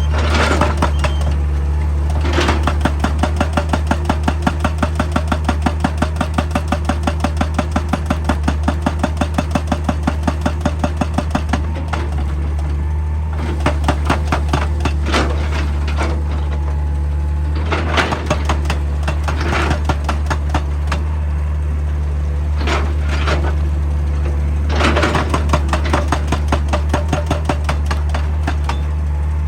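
Excavator's diesel engine running steadily while its hydraulic rock breaker hammers in a long run of rapid, regular blows, then stops. After that come scattered single knocks and clatter as rock is worked over the engine hum.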